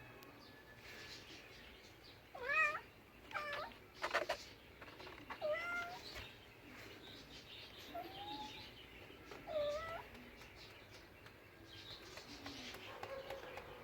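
A cat meowing, about five short meows spread over several seconds, with pauses between them.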